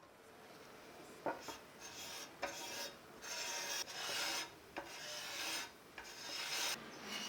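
Rust being scrubbed off a metal typewriter part by hand: a series of rasping back-and-forth strokes, about one a second, with a few sharp clicks between them.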